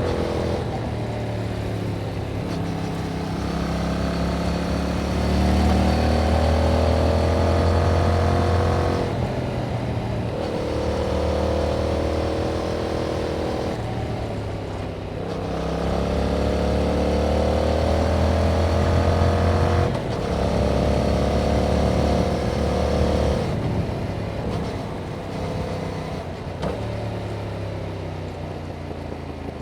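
2021 Yamaha MT-07's 689 cc parallel-twin engine through its stock exhaust under way, its revs climbing and dropping several times, then falling away near the end.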